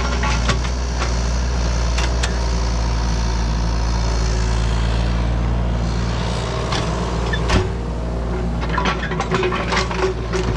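A heavy engine idling steadily, with scattered light clicks and knocks over it.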